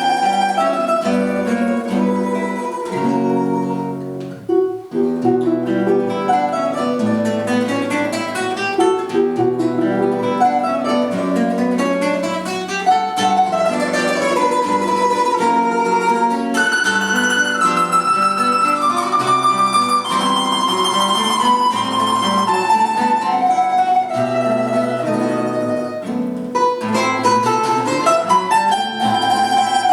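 Instrumental duet of plucked string instruments playing a melody over an accompaniment, with a brief dip in loudness about four seconds in.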